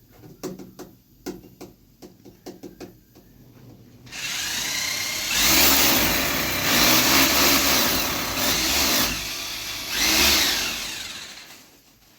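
A few sharp taps and knocks, then an electric power drill runs loudly for about seven seconds, its speed dipping and picking up again before it winds down.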